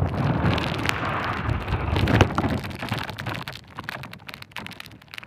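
Strong wind buffeting the microphone as a loud rumble with crackles, easing off after about three seconds.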